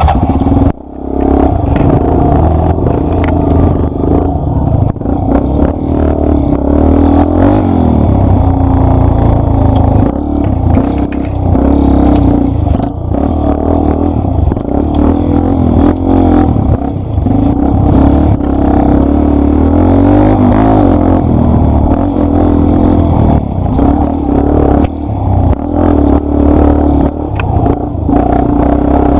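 Yamaha Lander 250's single-cylinder four-stroke engine running under a riding load, its pitch rising and falling with the throttle, with clattering over rough trail. The level dips briefly about a second in.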